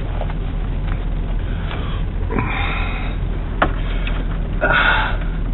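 Truck engine idling, a steady low hum heard inside the cab. A man sniffs twice close to the microphone, and there is a single click between the sniffs.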